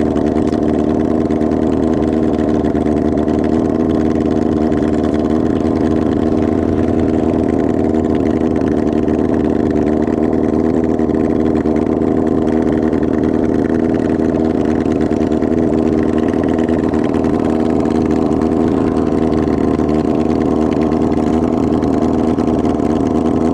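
Kawasaki ZR-7's air-cooled inline-four running without its exhaust muffler, at a steady, unchanging engine speed.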